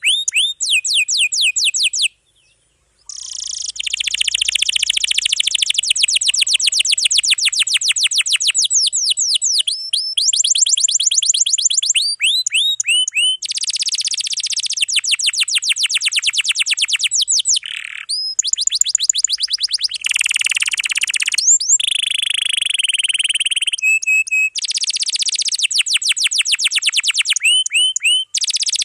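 Domestic canary singing a dense, continuous song of long rapid trills (rolls), each a fast run of repeated high notes that switches from one trill to the next. There is a short break about two seconds in.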